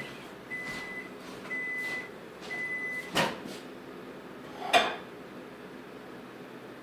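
Microwave oven beeping to signal the end of its heating cycle: short even beeps, about one a second, stopping after the third. Two sharp clunks follow, about three and five seconds in.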